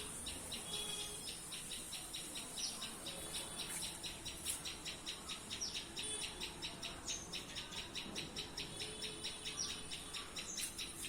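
A small bird chirping over and over in a fast, even series of short high chirps, several a second, with a few downward-sliding notes mixed in. A steady high insect buzz runs underneath.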